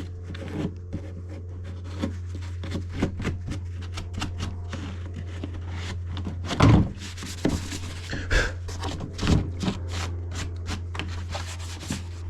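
Rubbing and wiping against a mower's fuel tank, with scattered light knocks and three louder thumps in the second half, over a steady low drone.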